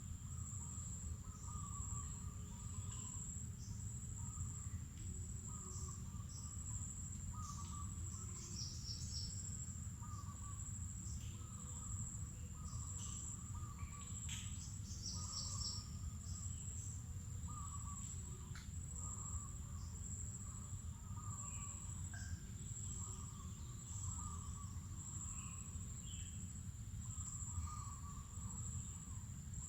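Forest insects holding a steady high-pitched drone, with a lower call repeating every second or two and scattered short bird chirps over it. A steady low rumble sits underneath.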